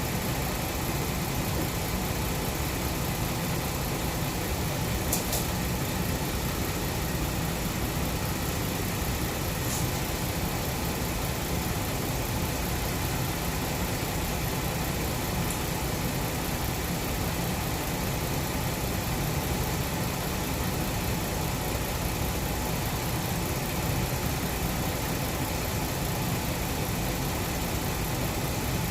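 2006 Dodge Charger engine idling steadily, circulating a motor flush through fresh oil before the oil is drained.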